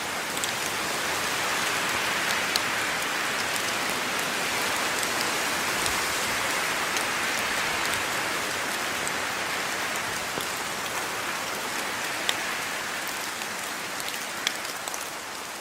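Steady rain falling on a surface, with individual drops ticking sharply now and then over the even hiss, easing slightly near the end.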